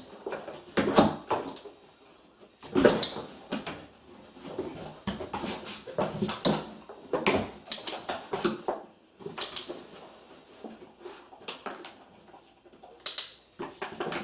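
A dog moving about in a cardboard box, its paws knocking and scraping on the cardboard at irregular moments, with sharp clicks from a training clicker now and then.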